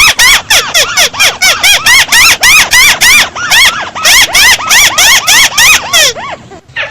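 Loud, rapid series of harsh arched calls from the bird known in Vietnamese as chim mắt xéo, about four a second, each note rising then falling with strong overtones, as a recording played back at boosted volume. The run breaks off about six seconds in, and a few fainter calls follow.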